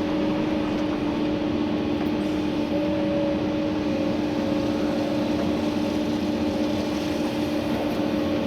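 Komatsu PC290-11 excavator's diesel engine and hydraulics running steadily under load, heard from inside the cab, with a steady pitched hum over the engine noise that fades out right at the end.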